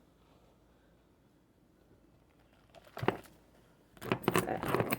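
Quiet room tone, then a short rustle about three seconds in and a louder burst of rustling and clattering in the last second, as things are handled close to the microphone.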